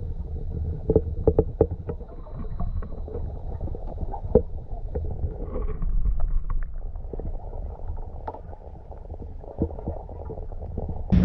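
Muffled underwater sound from a camera held below the surface of spring water near a kayak: a low rumble with scattered sharp clicks and pops.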